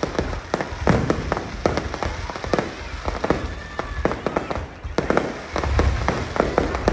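Fireworks display going off: a dense, irregular string of sharp cracks and pops over a deep rumble of bursting shells.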